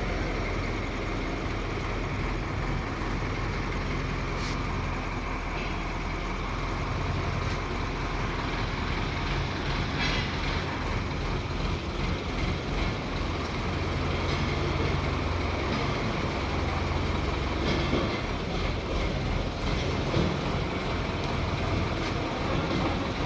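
Large mobile crane's engine running steadily, a low rumble with a few faint clicks.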